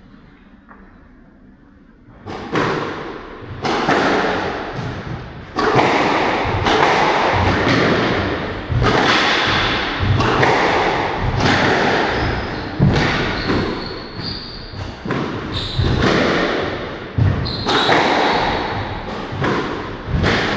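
Squash rally starting about two seconds in: the ball is struck by rackets and slaps the court walls about once a second, each hit echoing, with short squeaks of shoes on the court floor between the shots.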